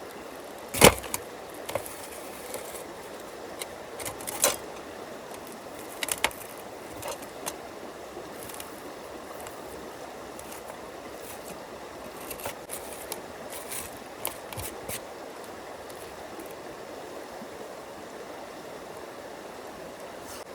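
Steady rush of a stream, with scattered sharp knocks and clinks, the loudest about a second in.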